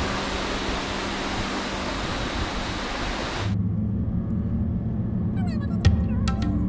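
A steady rushing noise that cuts off suddenly about halfway through. It gives way to background music with a steady low bass line and sharp plucked or percussive notes near the end.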